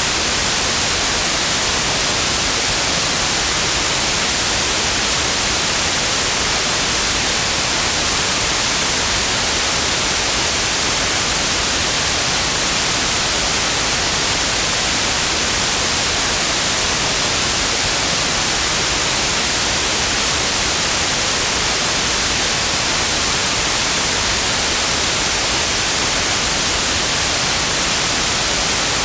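Synthetic white noise: a steady, unchanging hiss across the whole frequency range, brightest in the highs.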